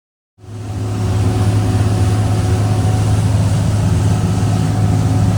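Twin Cummins 8.3 inline-six marine diesels of a 44-foot Sea Ray Sundancer cruiser running under way, a loud, steady low drone. It cuts in abruptly about half a second in.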